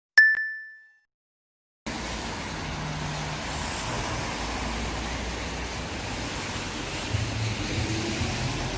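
A single bright ding, one clear bell-like tone with a higher overtone, struck once and fading within a second. About two seconds in, steady road-traffic noise starts, an even hum and hiss of passing cars.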